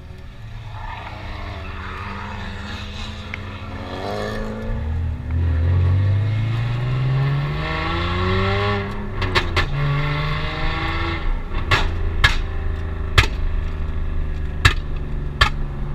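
Car engine accelerating hard, its pitch rising steadily for several seconds, dropping at an upshift and rising again. After that the engine holds a steadier tone under a run of sharp knocks and clicks.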